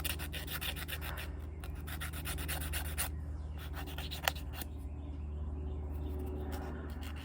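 Small scale-model car engine parts being hand-sanded with quick, repeated rubbing strokes, over a steady low hum.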